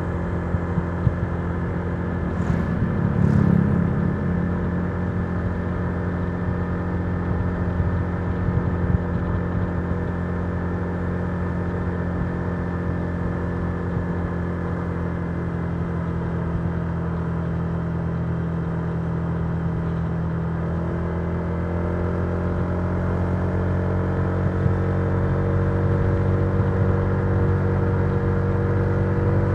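Honda Giorno 125 scooter's single-cylinder engine running steadily while cruising, heard from the rider's seat, with a brief louder swell about three seconds in. The engine note climbs gradually over the last third as the scooter speeds up.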